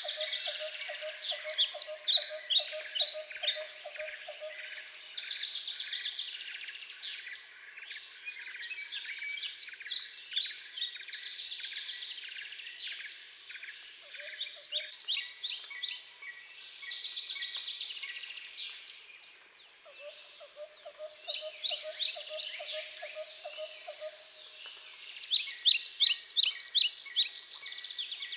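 Several small birds chirping and calling in bursts of rapid high chirps every few seconds, over a steady background hiss. A lower pulsing trill starts and stops twice.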